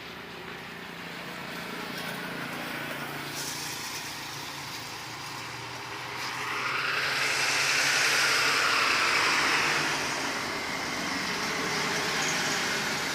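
A motor vehicle engine running steadily, with a louder rush of noise that rises and fades over about four seconds from the middle, like a vehicle passing.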